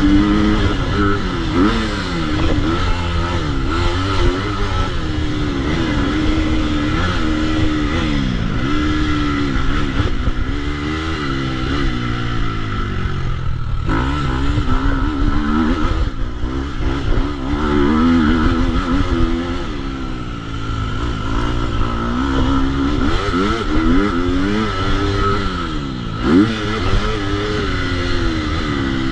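2022 KTM 250 SX-F's single-cylinder four-stroke engine being ridden hard, its pitch climbing and dropping again and again as the throttle opens and closes and it shifts through the gears.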